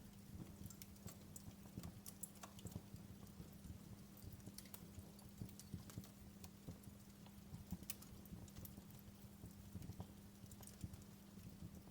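Wood fire crackling in a fireplace: faint, irregular small pops and snaps, several a second, over a steady low hum.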